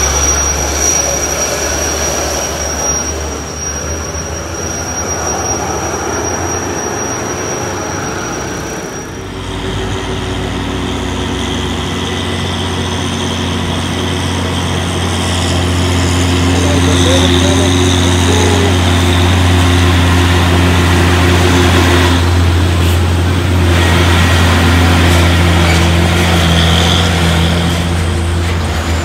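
Heavy truck's diesel engine labouring at low speed, a steady deep drone that changes abruptly about a third of the way in and grows louder about halfway through.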